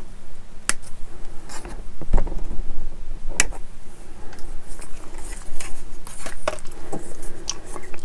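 Irregular sharp clicks and light taps of hard plastic model-kit parts and small hobby tools being handled.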